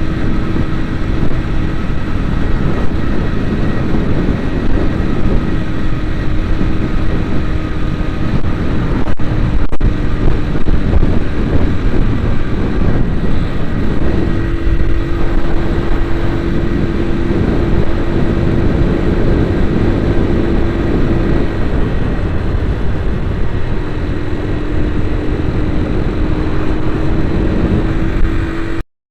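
A vehicle driving along a road: steady road rumble under an engine drone that holds a level pitch, fading in and out a few times. The sound cuts out for a moment near the end.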